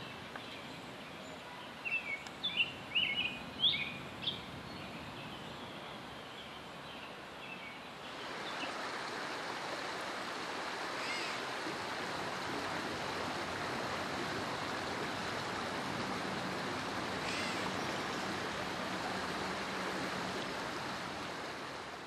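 Outdoor ambience: a small bird chirps in a quick run of short notes a couple of seconds in, then about eight seconds in a louder, steady rushing noise takes over and continues.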